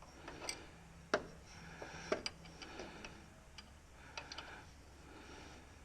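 A few faint, irregularly spaced clicks and light knocks.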